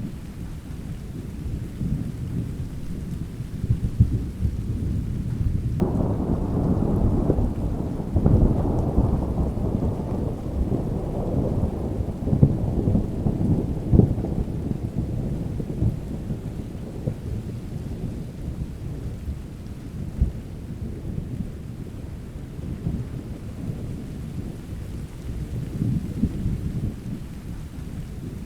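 Steady rain with a continuous low rumble of thunder. About six seconds in, a thunderclap breaks sharply, then rolls on and fades away over several seconds.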